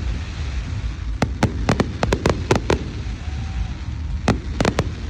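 Fireworks going off in rapid volleys of sharp cracking bangs: one run of about a dozen starting about a second in, a second burst near the end, over a steady low rumble.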